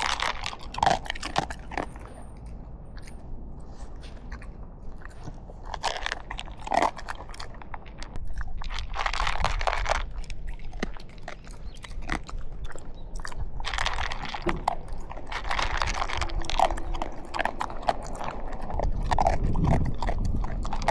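A dog chewing and crunching dry food, with repeated crunches and clicks and a few denser bursts of crunching.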